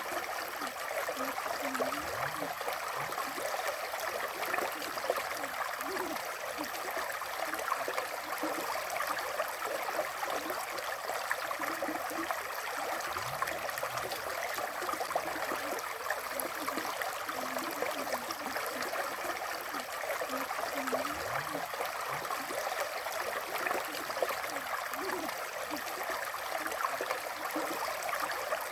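River water flowing steadily, with bubbling gurgles scattered through it and a few deeper gulps.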